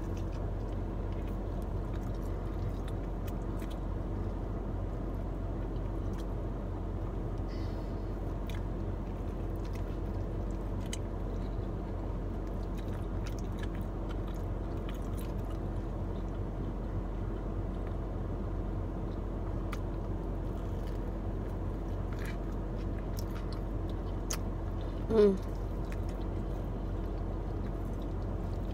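Someone chewing food, with faint scattered mouth and handling clicks, over the steady hum inside a parked car. A short vocal hum rises and falls near the end.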